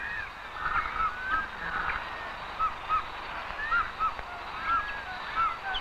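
Birds calling: a series of short rising-and-falling calls, about two a second and more frequent after the first couple of seconds, with scattered chirps behind them.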